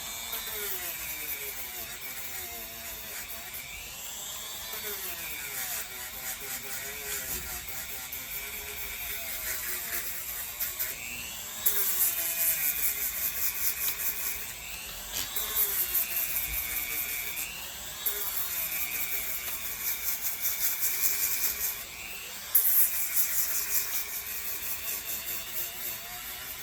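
Podiatry rotary drill with a sanding burr grinding down thick callus on the sole of the foot. The motor's whine dips in pitch under load and recovers every few seconds, and from about halfway through there are four spells of louder, rougher sanding.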